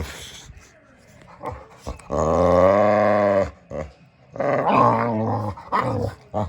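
Boxer dog vocalizing: a low, drawn-out groan with a wavering pitch about two seconds in, lasting over a second, then a shorter groan about a second later and a couple of brief ones near the end.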